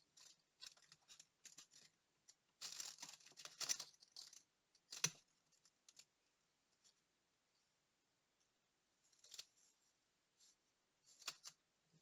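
Faint handwork on small watch parts: scattered short scrapes and clicks, with a denser run of scraping about three seconds in and a single sharp click about five seconds in.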